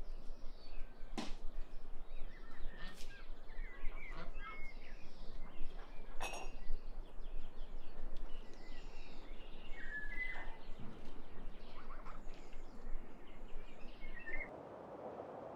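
Outdoor ambience with scattered bird chirps and a few sharp clicks. Near the end it gives way to a quieter, steady rushing noise.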